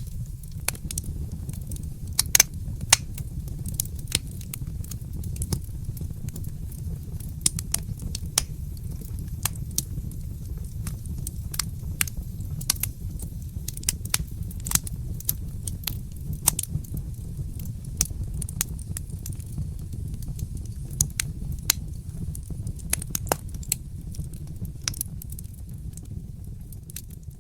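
Fireplace fire crackling: irregular sharp pops and snaps over a steady low rumble, dropping a little in level near the end.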